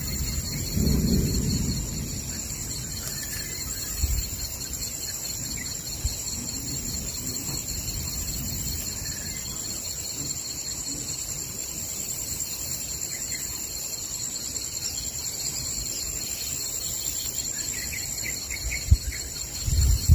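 Forest insect chorus: a steady, high-pitched pulsing drone. A low rumble of thunder fades out in the first two seconds, and a few faint bird chirps come near the end.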